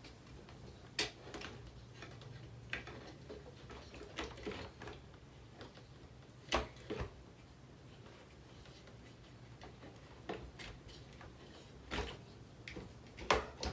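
Scattered light clicks and knocks, about nine at irregular intervals, as a plastic table fan is pried and worked at to break its blade wheel off, over a faint steady low hum.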